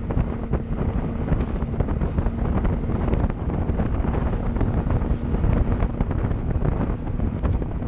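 Strong wind rushing over the microphone on a moving boat, mixed with the boat's running noise and choppy water, with a faint steady hum that fades in the first few seconds.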